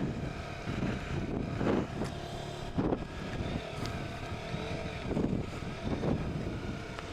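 KTM RC motorcycle engine running steadily under wind noise on the microphone.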